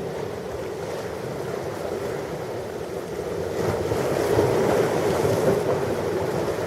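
Ocean surf: a steady wash of breaking waves that swells louder about halfway through, then eases slightly.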